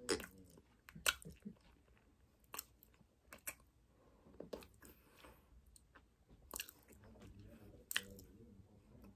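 Close-miked chewing of a mouthful of raw cornstarch: irregular crunches and wet mouth clicks about a second apart, the loudest in the first second or so.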